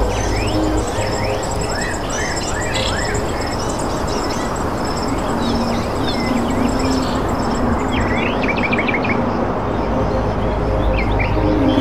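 Small birds chirping and twittering, many short, quick calls, over a steady background hiss.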